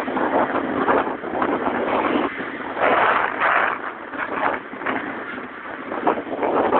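Riding noise from a motorbike heard through a cellphone microphone: wind rushing and buffeting over the mic, mixed with engine and road noise. It swells loudest about three seconds in.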